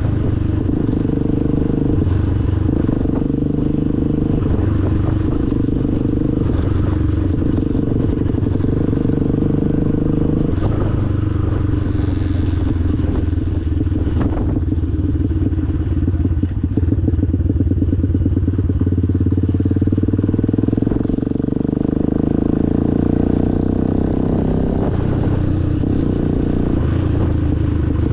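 Motorcycle engine running steadily under way, its pitch shifting a few times with throttle and gear changes.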